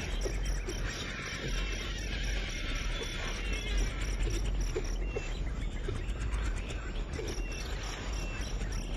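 Insects chirring in a steady, even pulsing rhythm of several pulses a second, with a few short high chirps now and then over a steady low rumble.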